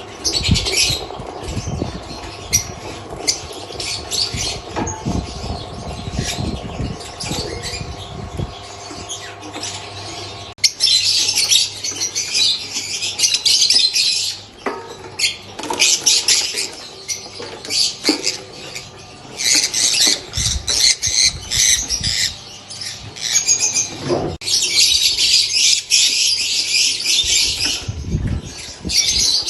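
Lovebirds chattering in rapid, shrill squawks, coming in loud stretches that grow longer and denser after about a third of the way in.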